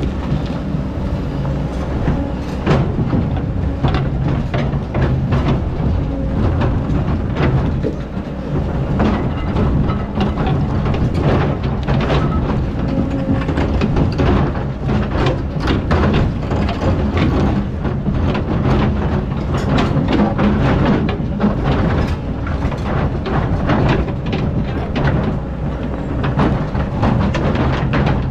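Excavator's diesel engine running under load while digging sand, with frequent clanks and knocks from the bucket and arm throughout.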